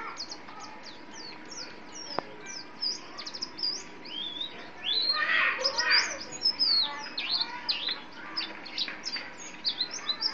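White-eye (pleci) songbird singing a fast, unbroken string of short, high, sweeping chirps, growing louder and fuller about halfway through. A single sharp click sounds about two seconds in.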